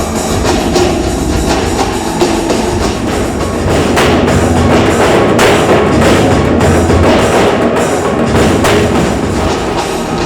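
Live ensemble percussion: many drummers beating steel oil drums with wooden sticks in a dense, pounding rhythm, over a steady low bass. It grows louder about four seconds in.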